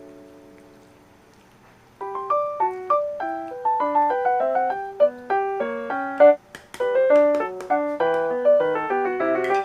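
Background music: a held chord dies away, then about two seconds in a light piano-like melody of quick, bouncing notes starts up.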